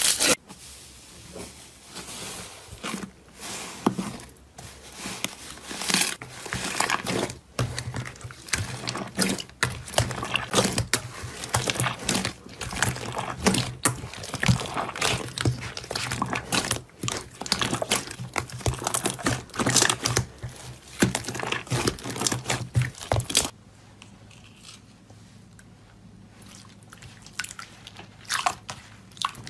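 Dense crackling and crunching as a crunchy material is crushed and squeezed, many small sharp crackles close together. About 23 seconds in it thins to a few soft crackles.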